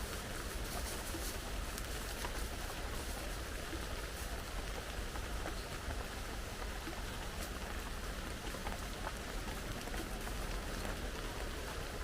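Steady heavy rain, with many small drops ticking through the hiss.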